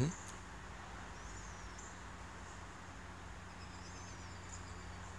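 Quiet backyard ambience: small birds chirp in short, high warbling phrases, twice, over a steady low hum. A brief low sound comes right at the start.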